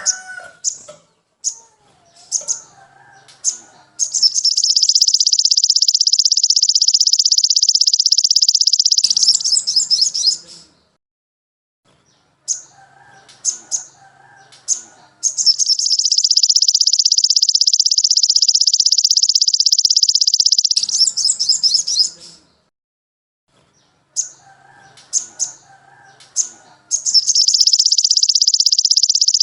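Recorded songbird song played as a looped training track: a few short high chirps, then a long, very fast high trill of about five seconds, the whole phrase repeating roughly every eleven seconds.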